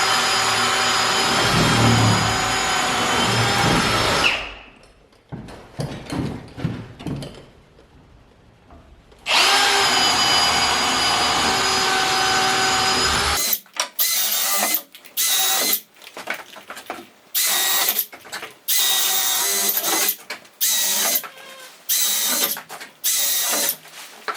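Power drill boring holes through wooden framing studs for electrical wire runs. It runs with a steady whine for about four seconds, then after some knocking it runs again for about four seconds. It finishes with a string of short quick bursts, one every second or so.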